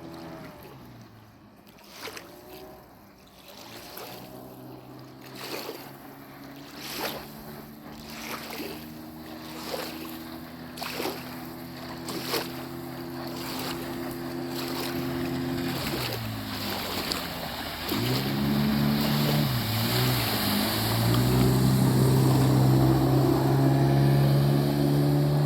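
An engine running steadily; its pitch drops and rises again about two-thirds of the way through, and then it runs louder. Through the first half there are sharp knocks about every second and a half.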